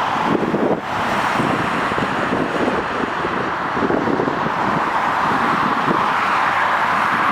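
Boeing 747-400 landing, its four Rolls-Royce RB211 jet engines giving a steady, loud roar. Wind buffets the microphone underneath.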